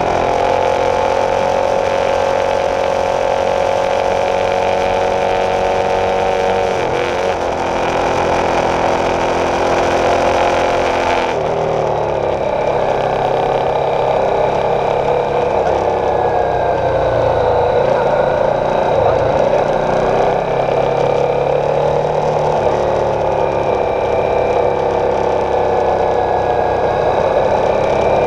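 Honda CB300F's single-cylinder engine running at a steady speed under way, its pitch dropping about a third of the way in, changing again shortly after, and then rising and falling gently, with wind noise on the microphone.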